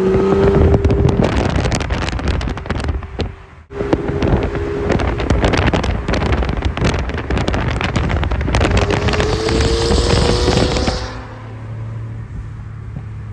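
Straight-piped Infiniti Q50 exhaust under hard acceleration, loud, with crackles over a rising engine note. It breaks off briefly about three and a half seconds in and then pulls again. Around eleven seconds it falls to a quieter, steady low drone.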